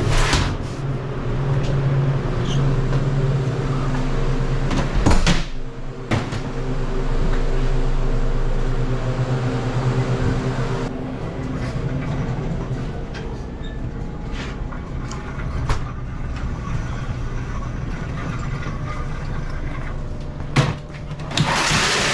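Steady mechanical hum with scattered knocks and rattles as a loaded dolly of store goods is wheeled in.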